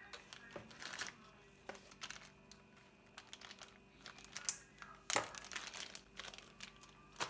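Plastic bags or packaging being handled and crinkled, in irregular rustles and clicks, with the loudest crackle about five seconds in.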